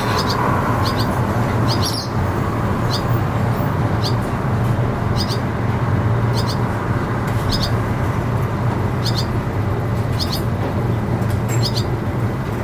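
Swallows calling with short, sharp chirps, often two in quick succession, about once a second, over a steady low rumble of traffic.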